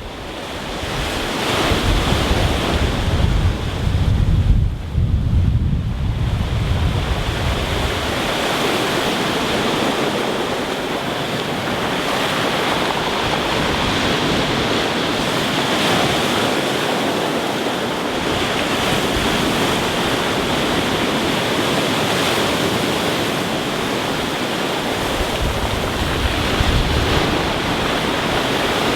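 Rough sea surf breaking and washing up a pebble beach, a steady rushing hiss as the stones are churned. Wind buffets the microphone with a low rumble for the first several seconds and again briefly near the end.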